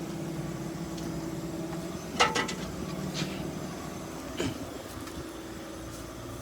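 Truck engine idling with a steady low hum, with a few short sharp clicks or squeaks about two, three and four and a half seconds in.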